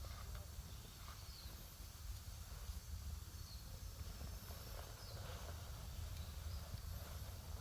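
Wood campfire burning with faint crackles and hiss, over a steady low rumble, while small birds give a few brief falling chirps in the background.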